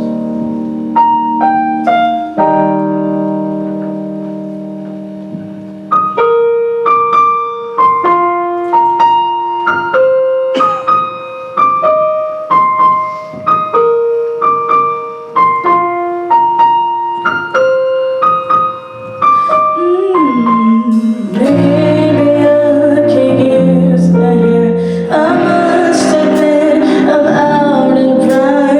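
Piano playing a slow instrumental passage: held chords, then a melody of single notes over them. About 21 s in the sound fills out and grows louder, with sustained wordless singing over the chords.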